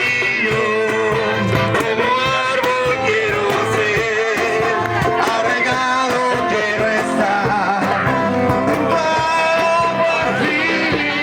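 Music: voices singing a Spanish worship song over guitar, at a steady level.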